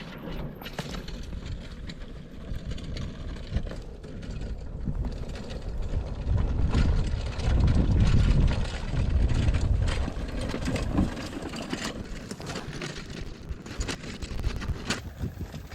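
Engine of a piece of farm machinery running, growing louder for a few seconds in the middle, with scattered clicks and rattles over it.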